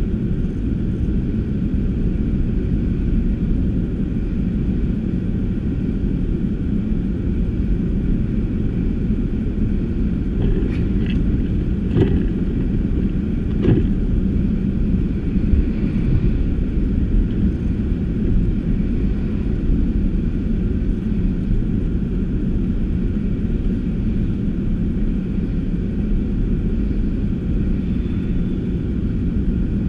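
Car driving, a steady low rumble of road and engine noise, with three short knocks between about ten and fourteen seconds in.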